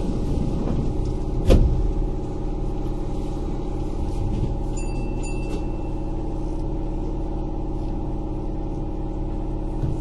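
Kintetsu 8000 series electric train running, heard inside the car: a steady rumble of wheels on rail with the hum of the traction motors and gears. A single sharp thump about a second and a half in.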